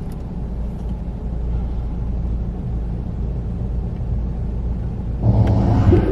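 Steady low rumble inside a car's cabin in an automatic car wash. About five seconds in, a louder rushing noise lasts for about a second.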